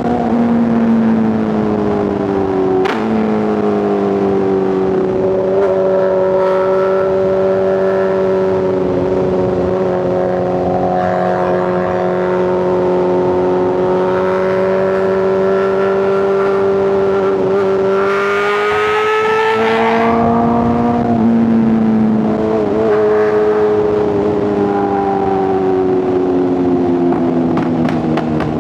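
Inline-four superbike engines and exhausts running at highway speed, the pitch easing slowly up and down. A quick shift about three seconds in, a louder, brighter swell about two-thirds through, and a slow fall in pitch near the end as the bikes ease off.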